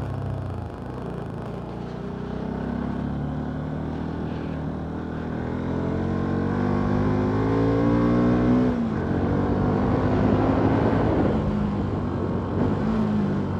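Bajaj Pulsar NS200 single-cylinder engine under way, its pitch climbing steadily for about six seconds as it revs through a gear. The pitch drops sharply near nine seconds in as the throttle closes or a gear changes. A few seconds of rushing noise follow before the engine settles at a lower pitch.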